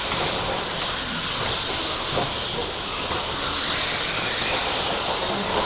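A pack of radio-controlled race trucks running around a dirt track: a steady, even high whir and hiss of motors and tyres.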